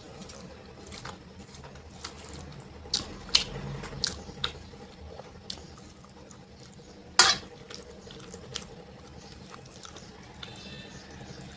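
Wet eating sounds from a mouthful of rice and dal: chewing with scattered sharp smacks and clicks, the loudest about seven seconds in.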